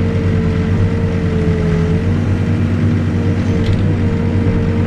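Backhoe's diesel engine running steadily while digging, with a slightly wavering high whine over the low drone.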